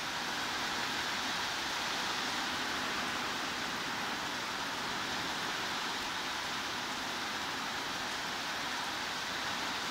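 Steady heavy rain: an even, unbroken hiss with no single drops or other events standing out.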